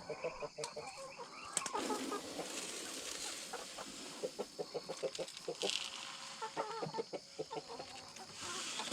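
Poultry clucking in quick runs of short calls, with a few brief rustling noises between them.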